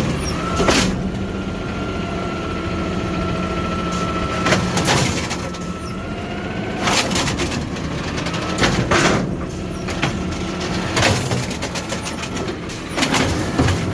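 A garbage truck's engine running under load while its hydraulics lift and empty a heavy trash can. A steady whine comes and goes, and the can gives several sharp clanks and bangs.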